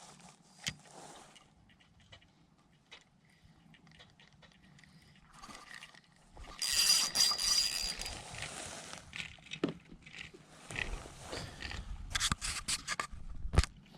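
Intermittent scrapes and clicks of fishing gear being handled on a kayak, with a louder scraping rustle about seven seconds in and a quick run of sharp clicks and knocks near the end.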